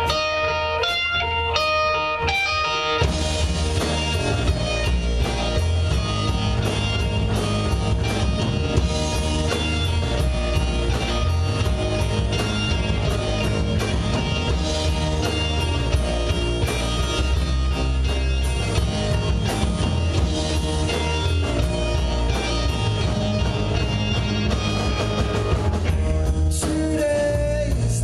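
Live rock band playing: an electric guitar picks a melody alone, then bass and drums come in about three seconds in and the full band plays on.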